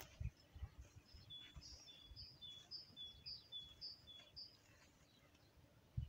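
Faint bird song: a high two-note phrase repeated about seven times, roughly twice a second, over scattered low thumps.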